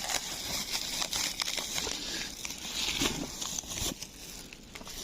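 Crinkling and rustling with many small clicks, easing off near the end.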